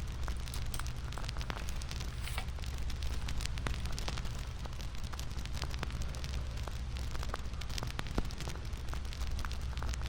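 Crackling bonfire: many irregular sharp pops and snaps over a steady low rumble of burning.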